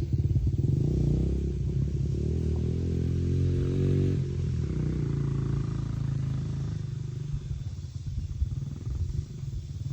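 Dirt bike engine running. It revs up in pitch about three seconds in and backs off around four seconds, then grows steadily fainter as the bike moves away.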